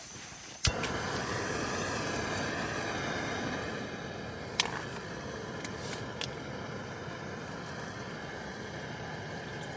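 Backpacking gas canister stove lit with a click, then burning with a steady rushing hiss as it heats water to boil; another sharp click about halfway through.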